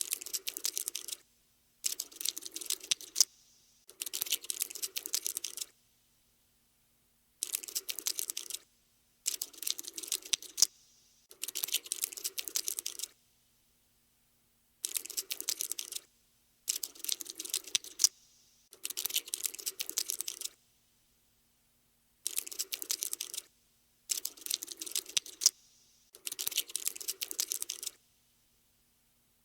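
Skittering cockroach sound effect: bursts of rapid, dry clicking and scratching, each lasting one to two seconds, repeated about a dozen times with short silent gaps between them.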